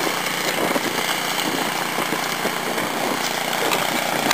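Cub Cadet gas snowblower running steadily while clearing snow.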